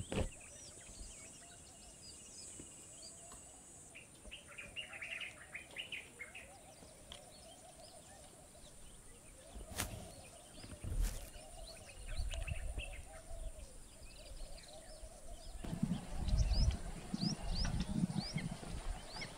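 Many small birds chirping and calling in quick short notes over a steady high-pitched drone. Low rumbling noise comes in for the last few seconds.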